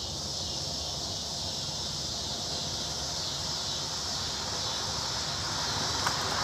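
Insects, such as crickets or cicadas, buzzing steadily in a high band over a low outdoor rumble. Near the end a vehicle grows louder as it approaches.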